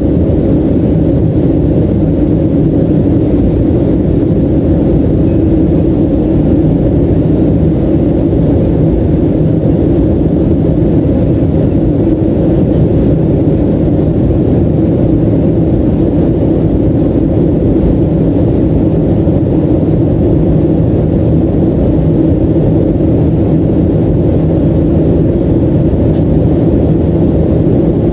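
Steady cabin noise inside a Boeing 737-300 in flight: a constant low rumble from its CFM56-3 turbofan engines and the airflow over the fuselage, unchanging in level.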